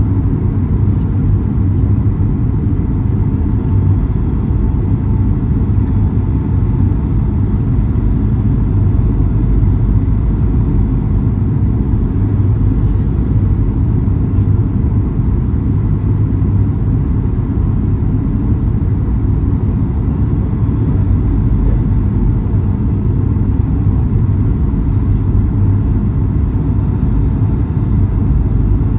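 Steady cabin rumble of a Boeing 737-800 in flight: a low, even roar of its CFM56 jet engines and the airflow over the fuselage, heard from inside the cabin.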